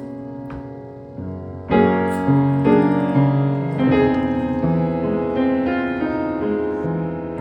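Background piano music: notes and chords struck at a moderate pace, growing louder about two seconds in.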